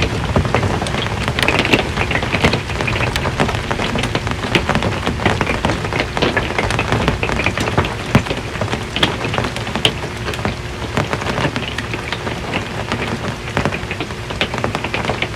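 Rain falling on an RV's metal roof: a steady patter made of many separate drop hits.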